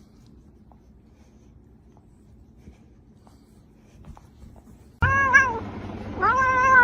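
A domestic cat meowing twice, two drawn-out meows that rise and fall in pitch near the end, after a few seconds of faint room hum with a few light clicks.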